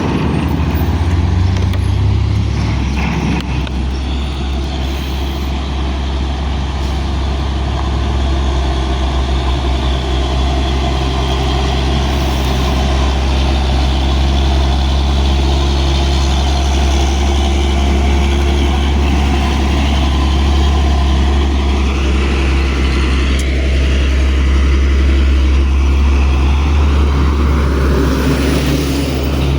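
Heavy truck engine running steadily under way: a constant low drone with road noise.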